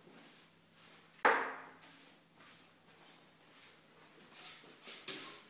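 Brush or cloth sweeping across a workbench in short strokes, roughly one or two a second, with one sharp knock about a second in.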